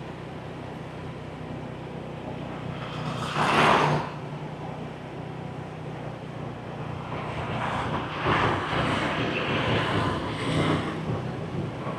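Motor scooter engine running at low speed, with other traffic passing: one vehicle goes by about three and a half seconds in, and the traffic grows louder from about eight seconds.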